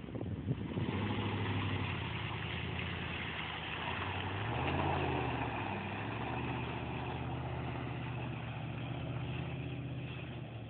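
Jeep Grand Cherokee ZJ engine running under throttle as it pulls away through mud. The engine note rises about four and a half seconds in, then holds steady.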